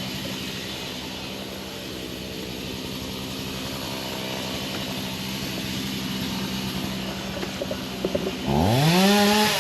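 An engine hums steadily, then near the end a chainsaw revs up sharply and drops back down.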